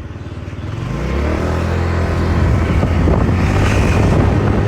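Motorcycle engine running, growing louder over the first second or so and then holding steady.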